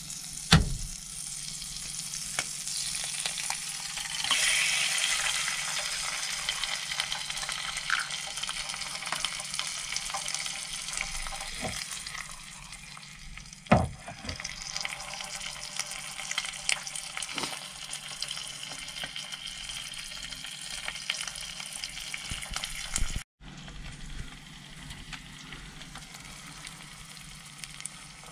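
An egg frying and sizzling in a pan on an electric hot plate, the sizzle swelling about four seconds in. A few sharp knocks of utensil or pan, the loudest near the start and about 14 seconds in.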